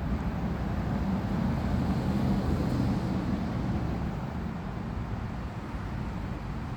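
Steady road traffic noise with a low hum, swelling slightly as a vehicle passes about two to three seconds in.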